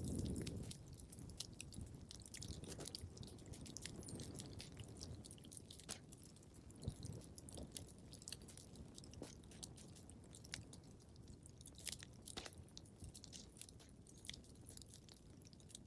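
Wood fire crackling in a fireplace: frequent sharp snaps and pops over a low rumble of the flames, with a brief louder low rush at the start.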